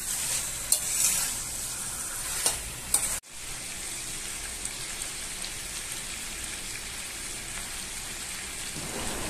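Masala-coated chicken pieces frying in a steel kadai, with a spatula stirring and scraping against the pan. About three seconds in the stirring stops abruptly, leaving a steady sizzle.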